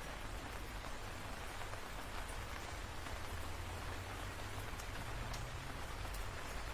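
Steady rain falling, a constant hiss with scattered drops ticking sharply, over a steady low rumble.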